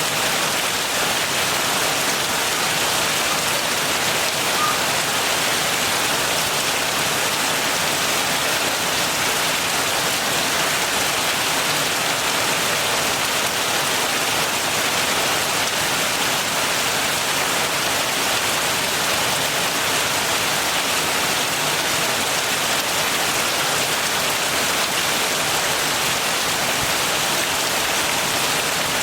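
Heavy rain falling steadily, a dense even hiss of rainfall.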